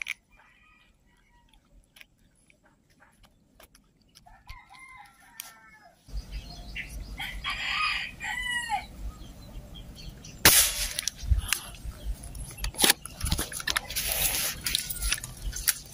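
Bird calls: a run of rising-and-falling notes about four seconds in and another around eight seconds. In the second half a rustling background with a few sharp knocks follows.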